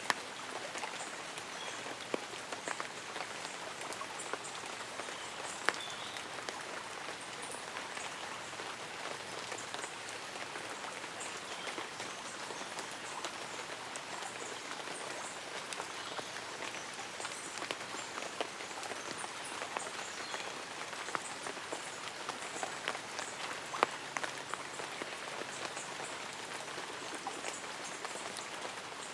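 Light rain pattering on leaves and an umbrella, a steady hiss with scattered louder drips, and faint high chirps of birds or insects.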